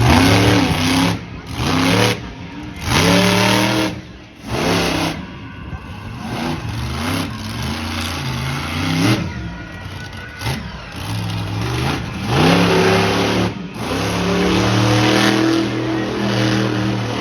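Monster truck engine revving hard in repeated bursts, the pitch rising and falling with each blip of the throttle, then held at high revs for a few seconds near the end.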